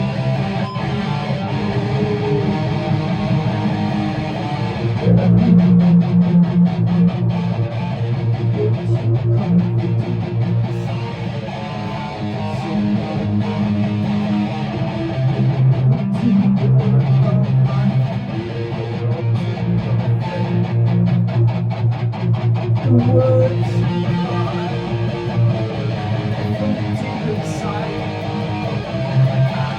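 Guitar strummed in a sung song's instrumental passage, chords ringing over held low notes, with stretches of quick, even strokes.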